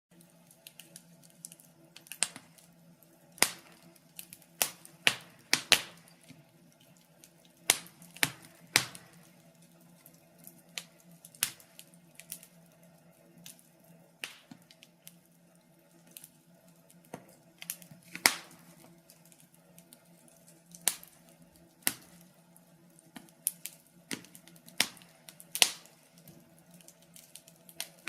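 Wood fire crackling in a fireplace: irregular sharp pops and snaps from burning logs, some loud, sometimes several close together, over a faint steady low hum.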